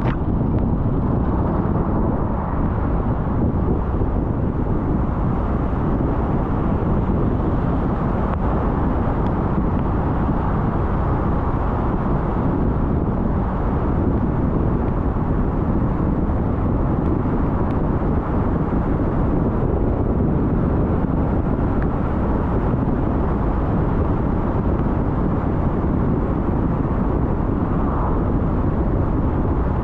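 A car driving: a steady rumble of tyres on the road and engine noise, with no change in speed or pitch.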